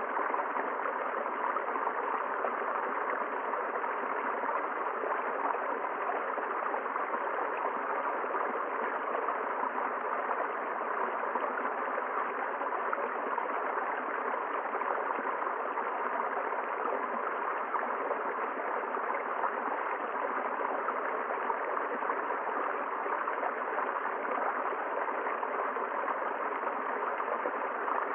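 River water flowing: a steady, even rush with no single splashes standing out.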